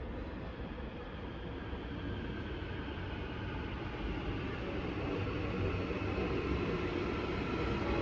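AREX Airport Railroad train approaching the station platform: a steady rumble that grows gradually louder as the train draws in.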